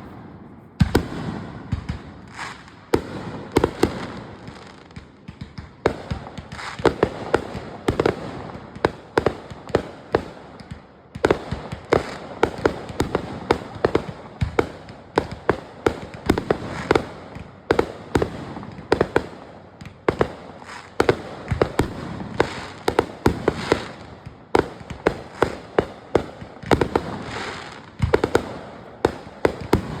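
Fireworks going off: a long, irregular run of sharp bangs and crackling pops, often several a second.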